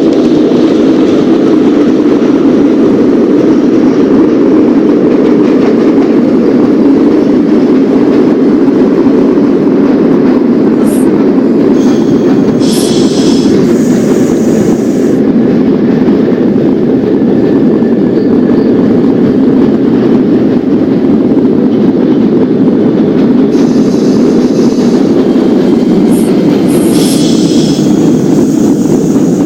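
New York subway train running on the rails with a steady loud rumble. Brief high-pitched wheel squeals come twice, about halfway through and near the end.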